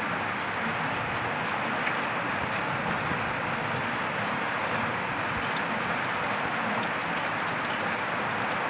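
Steady rain falling, an even hiss with scattered sharp ticks of individual drops striking.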